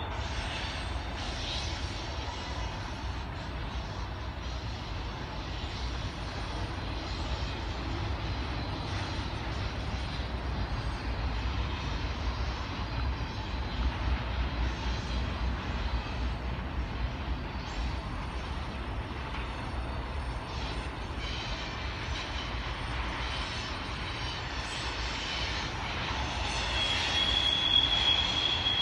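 Double-stack intermodal container cars rolling past on the track: a steady low rumble with rail noise. It grows louder near the end, when a high steady squeal sets in.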